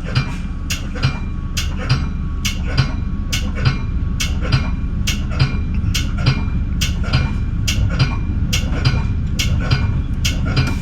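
Metra bi-level commuter train riding on the rails: a steady low rumble with sharp clicks repeating evenly, about two a second.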